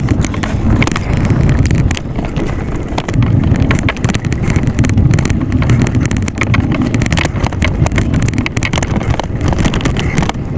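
Wind buffeting the microphone of a camera carried on a moving bicycle: a steady low rumble with scattered clicks and rattles.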